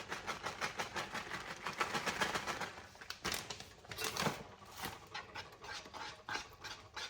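A spoon stirring shredded cheese into a thickening cheese sauce in a pot, a quick rhythmic scraping of about six strokes a second.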